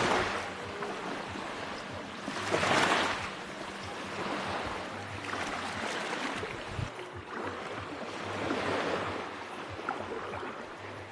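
Ocean waves breaking and washing up the shore in surges, the biggest about three seconds in, with another building near the end.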